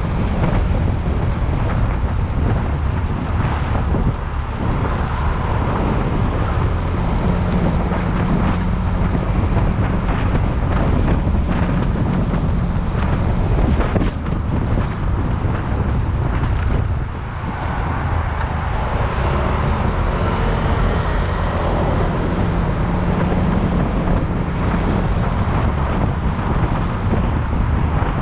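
Motorcycle engine running steadily while riding, mixed with road and wind noise, with a brief dip in level about two-thirds of the way through.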